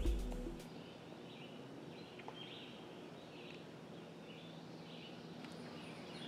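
Background music fading out in the first moment, then faint outdoor ambience with a string of small, short bird chirps.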